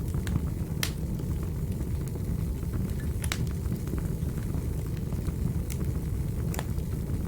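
Wood fire burning with a steady low roar, broken by sharp crackles and pops, a few of them loud.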